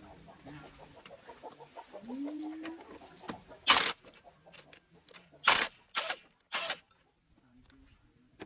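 Four sharp knocks, the first the loudest, with quieter ticks between them and a short rising call just before them.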